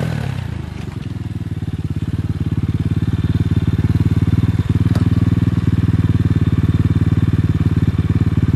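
Apollo 250 dirt bike engine settling back from a rev and then running steadily with an even, rapid pulsing beat.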